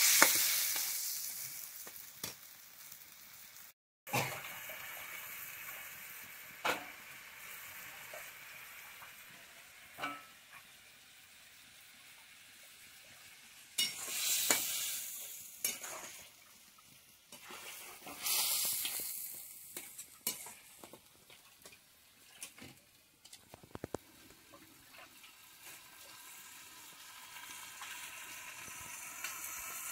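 Chopped tomatoes sizzling in oil in a metal pan, with a metal spatula scraping and clinking against the pan now and then. The sizzle swells louder twice in the middle.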